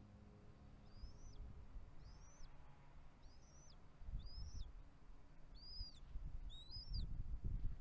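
A bird calling in a series of about eight short, high, arched chirps, evenly repeated, over low rumbling noise that swells twice.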